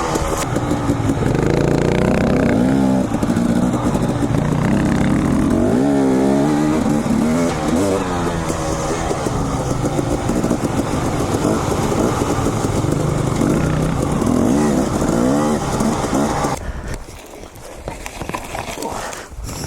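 Two-stroke dirt bike engine revving up and down under throttle on a trail, its pitch rising and falling repeatedly. The engine sound cuts off suddenly about three-quarters of the way through, leaving quieter background noise.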